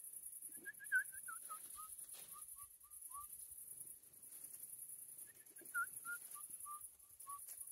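Bird calling a run of short whistled notes that step down in pitch and slow as they go, heard twice, faint over a steady high hiss.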